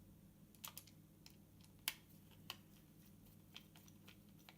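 Faint, scattered light clicks and taps, about eight in four seconds, the sharpest about two seconds in: small plastic case parts and a screw being handled while a gimbal mount is put back together.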